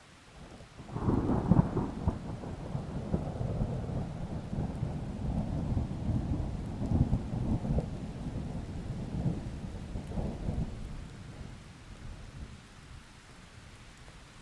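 A thunderclap breaks sharply about a second in and rolls on as a long low rumble with crackling peaks, fading out near the end, over steady rain.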